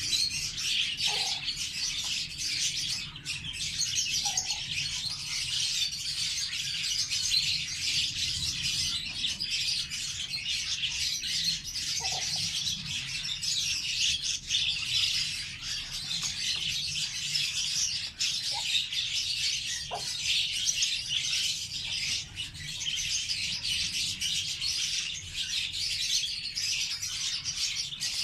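A group of pet lovebirds chattering with dense, unbroken high chirping, with a few short lower calls now and then.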